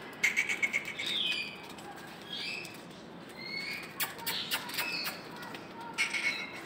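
Small birds chirping in short rising and falling notes. Bursts of quick sharp clicks come near the start, in the middle and near the end.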